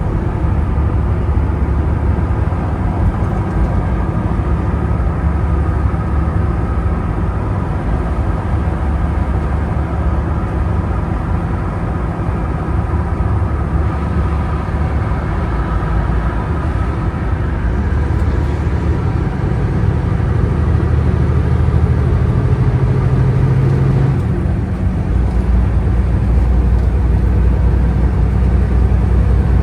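Semi truck engine droning steadily with road noise while the truck is driven, the engine note shifting lower about 25 seconds in.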